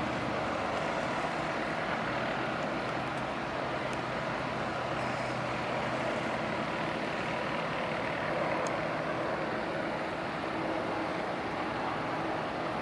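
Tugboat engines running slow as the boats manoeuvre out of the lock, a steady rumble with a faint low hum that fades out about halfway through.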